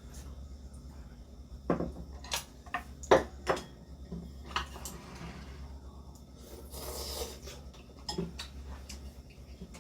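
Eating utensils clinking against bowls and the ramyeon pot: a handful of sharp clinks, the loudest about three seconds in, and a short noisy scrape around seven seconds, over a steady low hum.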